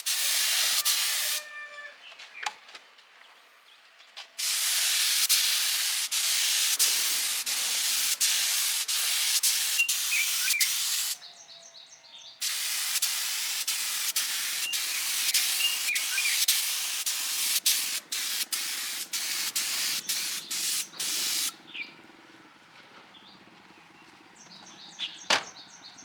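Compressed air hissing from an air tool in long bursts, switched on and off abruptly, with small clicks throughout. Faint bird chirps follow in the quieter stretch near the end.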